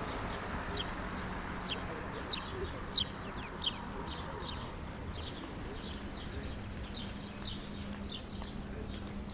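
A small bird chirping over and over in short, high, falling chirps, about two a second, over a steady low hum and background noise.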